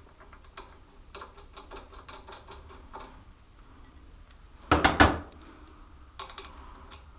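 Hand tools working on a motorbike's steering head: a run of light metallic clicks, a loud double clunk about five seconds in, then more clicking.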